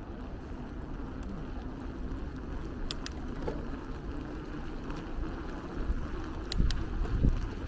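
Steady low rumble of riding a bicycle on city streets, with wind buffeting the microphone that grows stronger near the end, and a few sharp clicks.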